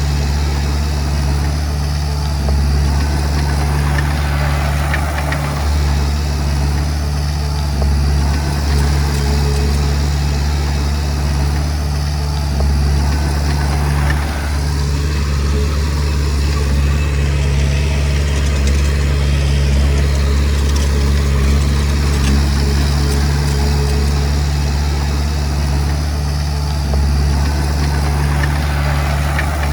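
Komatsu D20P bulldozer's diesel engine running steadily, a constant low hum with no revving.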